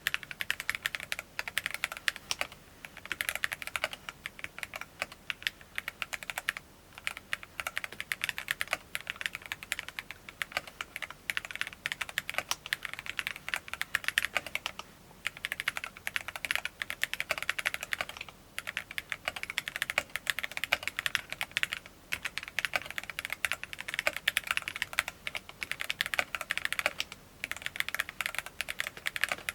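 Typing on a Cyberboard tenkeyless mechanical keyboard with TTC Gold Red linear switches: fast, continuous keystrokes in runs of a few seconds, broken by brief pauses.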